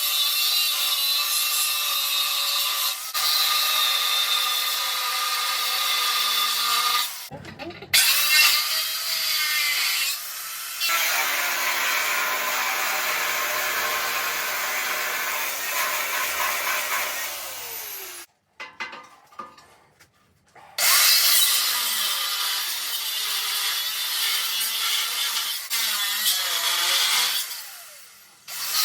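Angle grinder with a cut-off disc cutting through a steel tractor frame, running in several long cuts with short breaks. It winds down and stops for a few seconds about two-thirds of the way through, then cuts again and winds down near the end.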